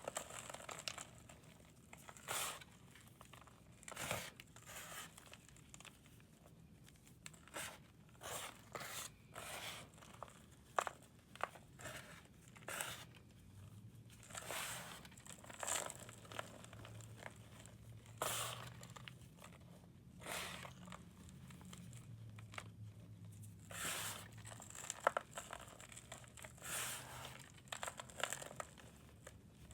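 Blocks of pressed powder, such as gym chalk, corn starch or cleaning powder, being crumbled and shaved by hand: a run of short, dry crunches and scrapes at irregular intervals.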